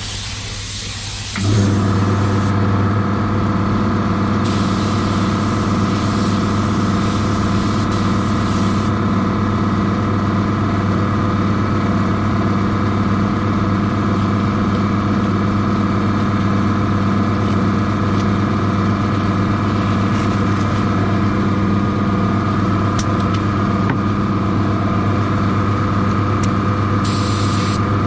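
A hiss of spraying air for the first second and a half, then a machine's motor starts abruptly and runs with a steady, even hum, with a few brief hisses over it.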